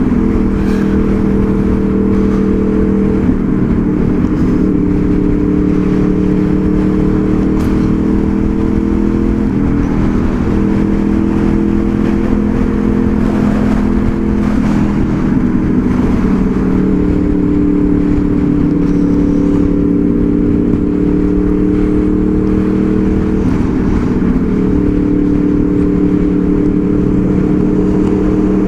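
2002 Honda VFR800 Interceptor's V4 engine running under way, its pitch stepping up and down several times as the throttle and gears change, over a steady low rush of noise.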